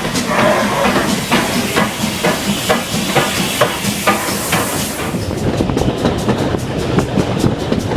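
Steam locomotive 4277 Hercules moving slowly, with steam hissing and irregular clanks and clicks of wheels over rail joints. About five seconds in the hiss eases and the clicks come faster.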